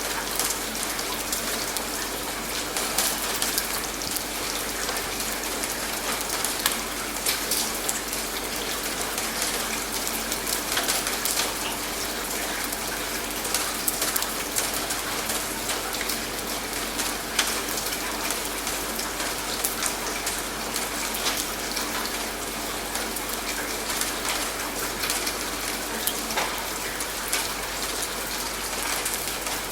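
Steady rain, with many close drops pattering on a surface.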